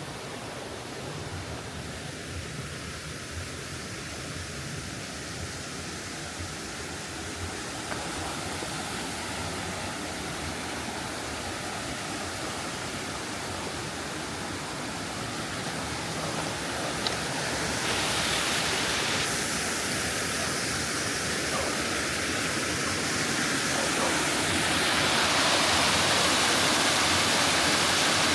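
Steady rush of flowing stream water, growing louder in two steps in the second half.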